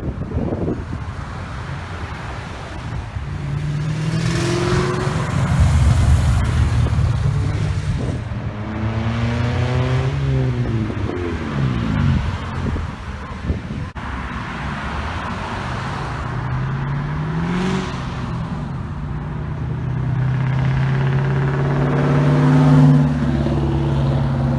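Several cars pulling away one after another, engines revving up and dropping back as they accelerate past. Near the end a steady engine drone builds to the loudest point.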